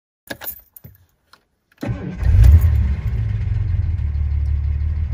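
A few faint clicks, then a car engine cranks and starts about two seconds in, surges briefly as it catches and settles into a steady idle.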